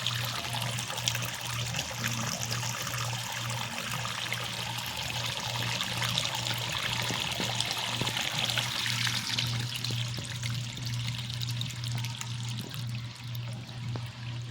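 Washing-machine drain water gushing out of the end of a large pipe and splashing onto the ground, a steady rushing pour that eases slightly in the last few seconds. A low pulsing hum runs underneath.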